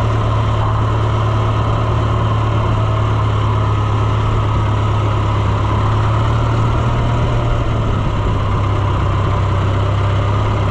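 Farm tractor engine running at a steady, even speed, heard close from the operator's position.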